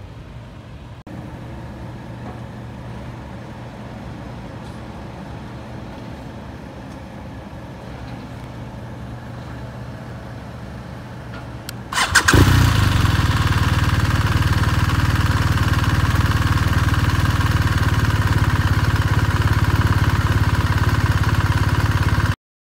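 BMW R1250RS's 1254 cc boxer twin engine starting about twelve seconds in, catching at once and then idling steadily and loudly before the sound cuts off suddenly near the end. Before the start, only a low steady hum is heard.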